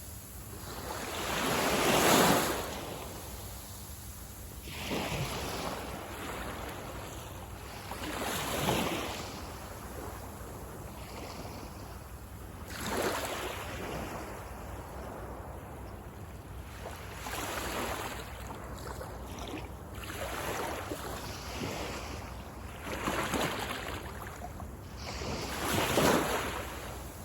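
Sea waves breaking on the shore and washing back, one surge after another every three to four seconds, the strongest about two seconds in.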